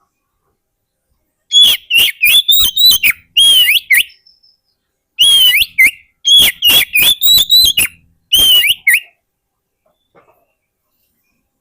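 Oriental magpie-robin (kacer) singing: loud, rapid phrases of sharp whistled notes and quick up-and-down sweeps, in several bursts with short gaps, starting about a second and a half in and stopping around nine seconds.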